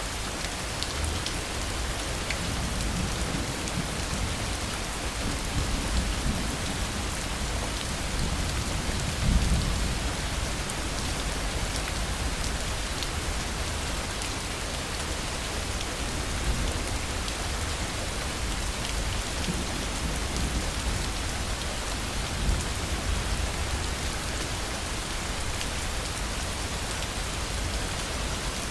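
Heavy, steady rain of a thunderstorm, with low rolling thunder rumbling underneath, loudest about nine seconds in and again more faintly later.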